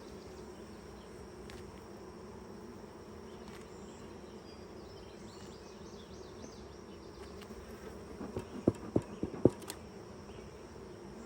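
Honeybees from an open hive buzzing steadily around the inspected frames. A quick cluster of four or five sharp taps or knocks cuts through the buzzing about eight to ten seconds in.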